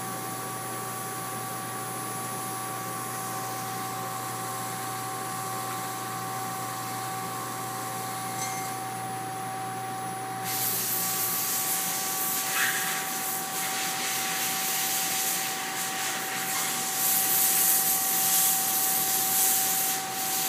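Double-disk grinder running with a steady whine made of several fixed tones. About halfway through, a loud, rough hissing grind starts and carries on as the abrasive disks bite into the flatstone's faces.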